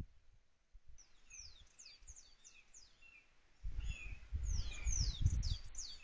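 A songbird calling in a quick series of short, high notes, each sliding down in pitch, about three a second. A low rumbling noise sets in about halfway through and is louder than the calls.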